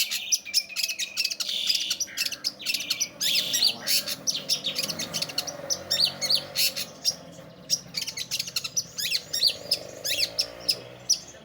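Long-tailed shrike singing a fast, unbroken stream of short, sharp chirps and quick rising notes.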